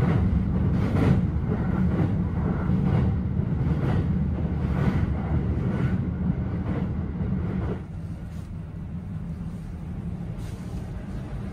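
Double-decker local train running across a steel truss bridge, heard from inside the car: a loud low rumble with a faint clatter about once a second. About eight seconds in it drops to a quieter rumble.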